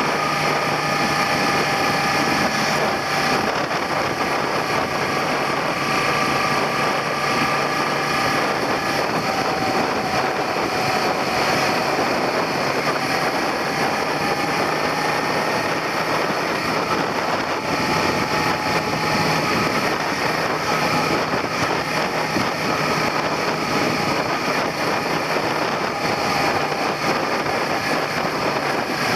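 Suzuki SV400's V-twin engine running as the motorcycle rides along, with steady wind rush over the handlebar-mounted microphone. The engine note drifts slowly up and down with the revs.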